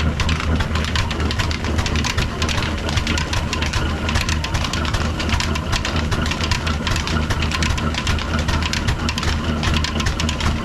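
Old black desi diesel engine, a slow single-cylinder stationary type, running steadily with a deep hum and a rapid knocking clatter, as it drives an atta chakki flour mill.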